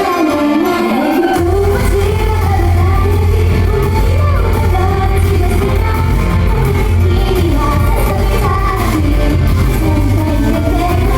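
Pop song performed live: singing over a loud backing track, with the heavy bass dropping back in about a second and a half in.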